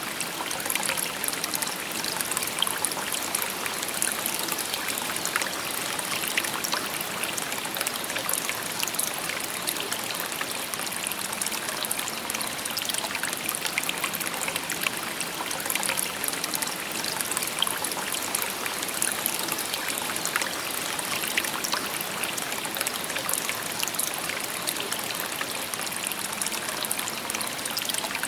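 A shallow river or stream babbling over stones: a steady rush of water with many small splashes and trickles.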